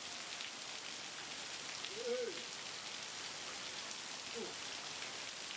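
Heavy rain falling steadily: a dense, even hiss with scattered patter of drops. Twice, about two seconds in and again about four and a half seconds in, a brief call rises and falls over it.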